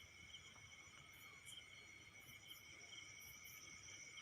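Faint, steady chirring of insects such as crickets, made up of several high, even tones.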